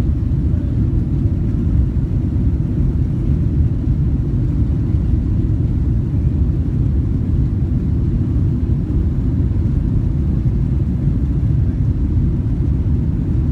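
A steady, loud low rumble with no distinct engine tone or other events.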